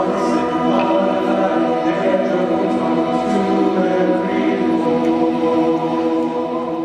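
Church choir singing the long held closing chords of a Christmas song.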